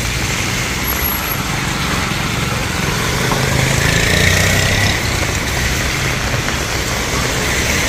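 Road traffic passing: engine rumble and tyre noise that swell as a vehicle goes by about four seconds in, then ease off.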